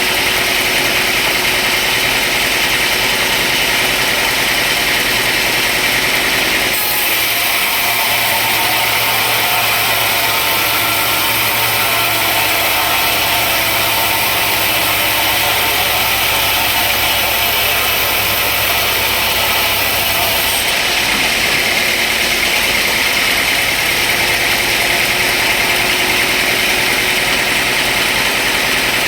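Sawmill machinery running steadily. A deeper hum with a brighter hiss joins in about seven seconds in and drops away about twenty-one seconds in.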